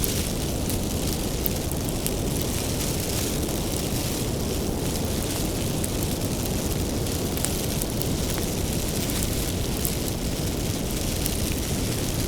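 Bonfire of firewood burning with a steady low rumble of flame and many small, sharp crackles and pops from the wood.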